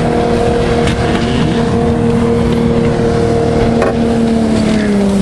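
Motorboat engine running steadily, its pitch dropping slightly about four and a half seconds in as it eases off.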